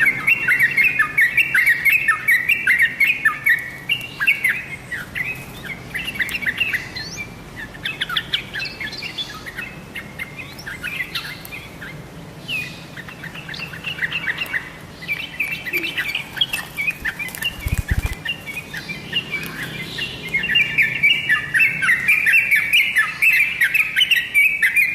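Yellow-vented bulbul (trucukan) singing a rapid, chattering song of many short notes. It is loud at first, thins out in the middle and comes back loud near the end. A brief low thump falls a little past the middle.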